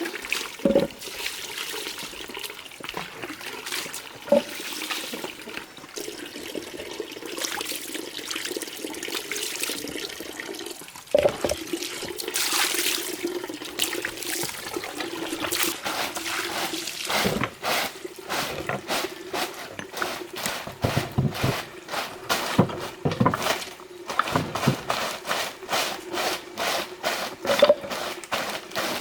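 Water running and splashing, with many short sharp strokes in the second half, about two to three a second.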